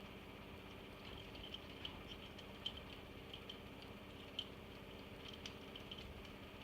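Faint, irregular small clicks and ticks of tools and parts being handled during an iMac G3 teardown, two of them sharper, about a third of the way in and again past the middle, over a steady low hum.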